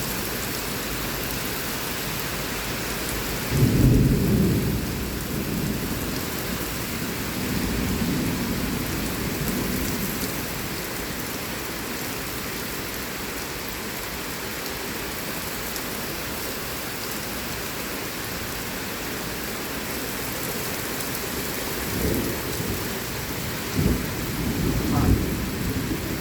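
Heavy rain falling steadily in a thunderstorm, with a sudden loud burst of thunder about four seconds in, a lower rumble a few seconds later, and more thunder near the end.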